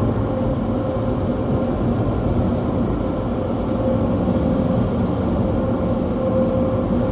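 Automatic car wash machinery heard from inside the car: a steady rushing roar with a faint, steady whine.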